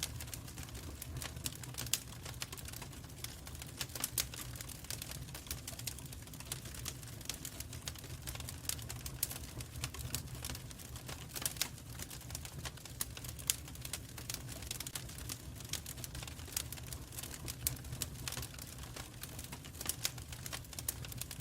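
Wood fire crackling in a fireplace: many irregular sharp snaps and pops over a low steady rumble.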